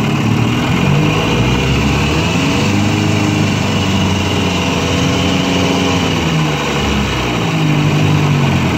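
1953 Johnson QD-14 10 hp two-cylinder two-stroke outboard motor running under way, its engine note rising and falling back a couple of times.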